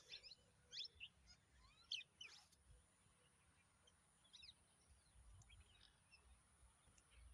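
Faint, short bird chirps and calls, several in quick succession in the first two seconds, then scattered single chirps.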